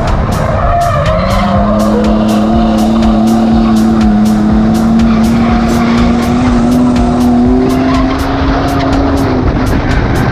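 Ford AU Falcon drift car's engine held at high revs through a long slide, its pitch climbing about a second in and creeping slowly higher before dropping near the end, with the tyres skidding and squealing.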